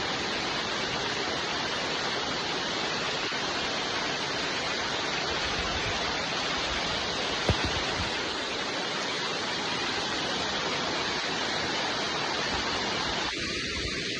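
Steady rain falling, an even hiss with no breaks, and a single sharp tap about halfway through. Near the end the sound becomes slightly thinner and quieter.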